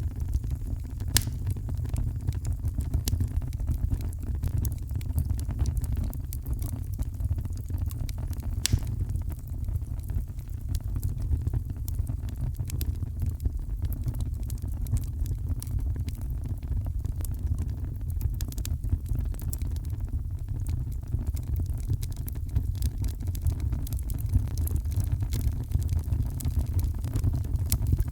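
Heavy rain and a wood fire: a steady low rumble of rain with frequent sharp, irregular crackles from the burning fire.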